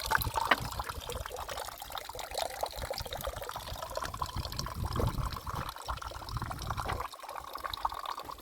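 Water trickling and flowing, with a low rumble on the microphone that cuts off about seven seconds in.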